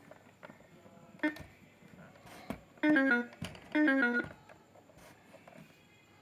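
Chicco Talking Farm House toy's electronic speaker playing two short melodic jingles of stepped notes, each under a second, about 3 and 4 seconds in. A few sharp clicks come before and between them.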